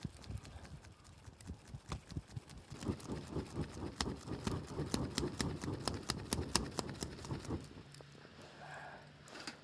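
Campfire crackling and popping as freshly added peanut and ginkgo shells catch and burn, with sharp irregular snaps throughout. From about three seconds in, a run of soft thuds joins the snapping for a few seconds.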